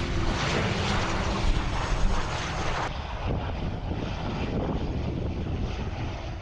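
Airliner passing, its engine roar loudest over the first three seconds and then slowly fading away.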